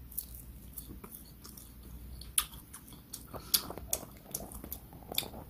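Close-up chewing and biting of grilled dried yellow croaker (gulbi): wet mouth clicks and small crunches, with a few sharper ones past the middle.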